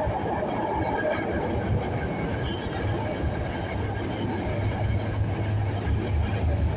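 A train running through the station: a steady rumble with faint whining tones above it, the low hum growing stronger toward the end.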